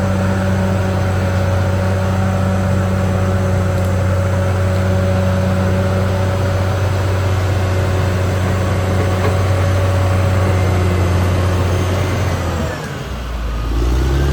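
Caterpillar D6R XL bulldozer's diesel engine running steadily at working revs. About thirteen seconds in, the engine note drops briefly and then climbs back up.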